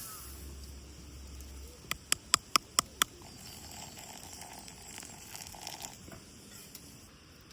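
Six sharp clicks in quick succession, about five a second, over a faint background hiss.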